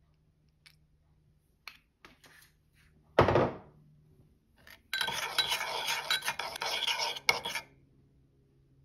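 A spoon or utensil working against a dish: a few light clinks, one sharp knock about three seconds in, then a couple of seconds of dense scraping and clattering as food is stirred or mixed.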